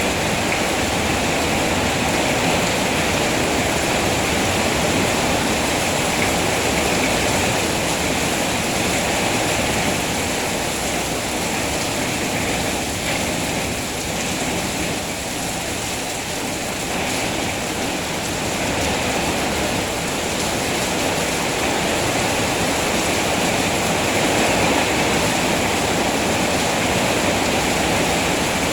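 Steady heavy rainfall, a dense even hiss of rain.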